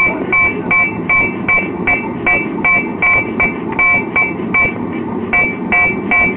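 Blacksmith's hammer striking hot steel on an anvil in a steady rhythm of about two to three ringing blows a second, with a brief pause about five seconds in.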